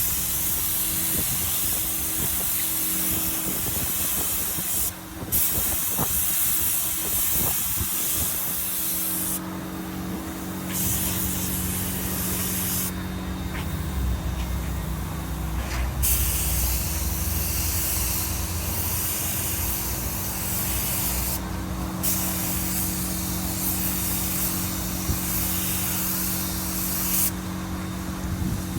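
Compressed-air paint spray gun hissing as automotive paint is sprayed onto car panels, the trigger let off briefly several times between passes. A steady low hum runs underneath.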